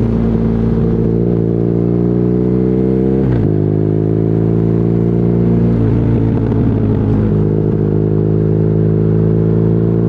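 BMW R nineT's boxer twin running through an Akrapovic exhaust under acceleration, its pitch climbing steadily. The pitch drops sharply twice, about three and a half and six seconds in, as it shifts up, then climbs again.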